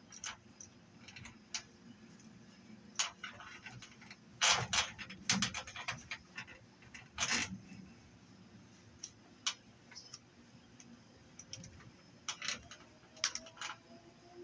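Scrap metal being handled: irregular light clicks, taps and scrapes, busiest around five seconds in, with another loud clatter a couple of seconds later. A faint rising hum comes in near the end.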